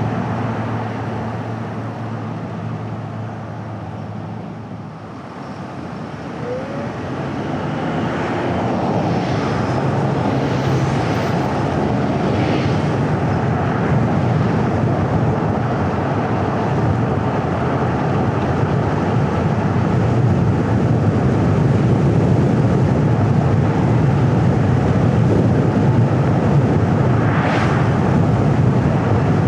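A car driving, with steady tyre and road noise and wind. A low engine drone at the start fades out, and the noise dips about five seconds in, then builds and holds steady.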